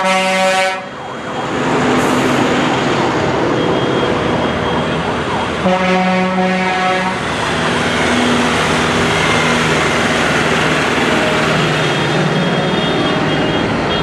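Tractor horns sound two long blasts, one at the start and one about six seconds in, with fainter toots near the end, over the steady din of passing tractor engines.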